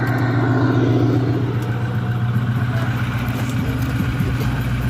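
Ford F-350 pickup engine idling steadily, with a constant low hum.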